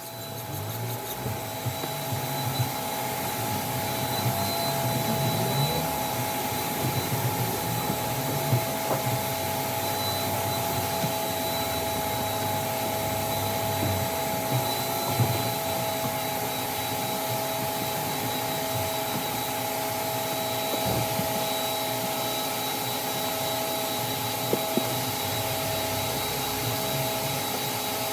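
Vacuum cleaner running steadily with a constant high whine and hiss, building up over the first few seconds, with a few light knocks along the way.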